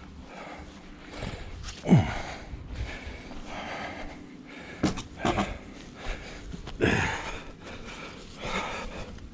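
A man grunting and breathing hard with physical effort: two strained grunts that fall in pitch, about two seconds in and again near seven seconds, with a few sharp knocks in between.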